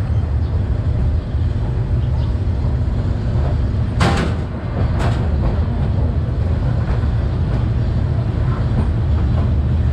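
Vietnam Railways passenger train SPT1 running: a steady low rumble of wheels on track, with two sharp knocks about a second apart near the middle.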